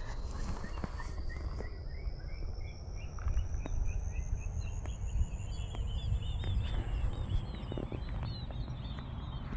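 Open-field ambience: wind rumbling on the microphone over a continuous run of small high chirps, several a second, that creep slowly upward in pitch.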